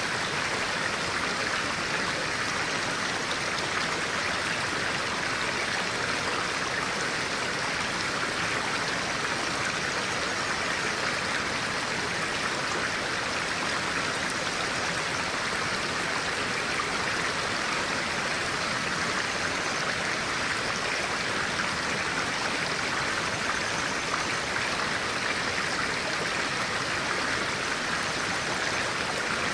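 A stream of clear water flowing, a steady, unbroken rush of running water.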